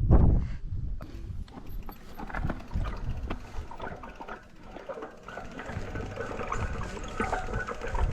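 Footsteps and the knocking and clatter of a mountain bike being pushed along a rough trail, with an irregular run of short knocks and clicks.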